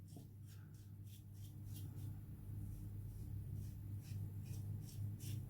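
Gillette Black Beauty adjustable safety razor scraping through stubble in short, faint, rasping strokes, a few a second, over a low steady hum.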